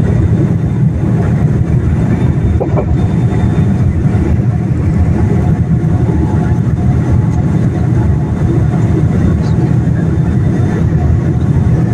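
Steady, loud low rumble of a Boeing 787's engines and airflow heard inside the passenger cabin.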